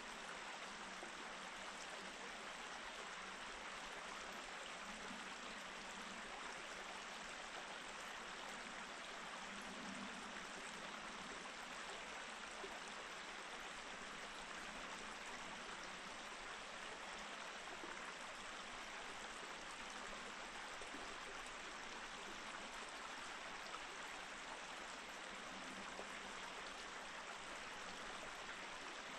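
A small mountain stream running steadily over rocks, an even rush of flowing water.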